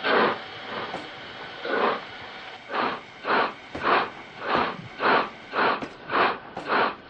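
Steam locomotive chuffing as it pulls away, the chuffs coming faster and faster over a steady hiss.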